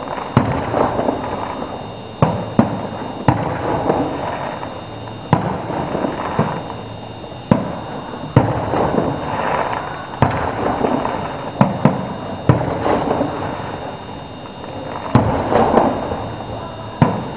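Fireworks going off: a dozen or so sharp bangs at irregular intervals, some less than a second apart, over a steady background noise.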